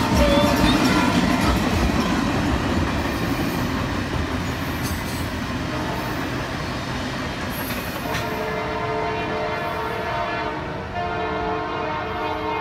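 Canadian Pacific Holiday Train rumbling past as its last cars go by, the rail noise fading as it pulls away. From about eight seconds in, the locomotive's horn sounds in the distance as a steady chord, with a short break near the end.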